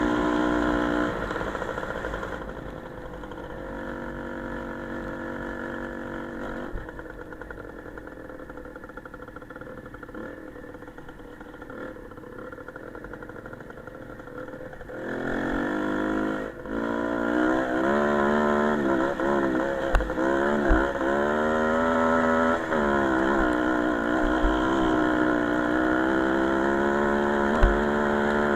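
Small motorcycle engine running: loud at first, then dropping back to a quieter, steadier note for about twelve seconds. About halfway through it is loud again, its note rising and falling as it is revved and ridden, with a few brief knocks.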